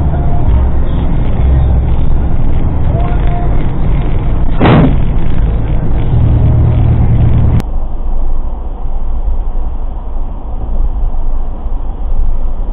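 Heavy low rumble of road and engine noise inside a moving vehicle, with one sudden loud bang a little under five seconds in. After about seven and a half seconds the rumble cuts off abruptly and a quieter road noise follows.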